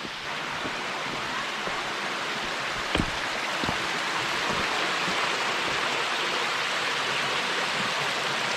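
Waterfall: a steady rush of falling water that grows a little louder over the first couple of seconds, with one brief knock about three seconds in.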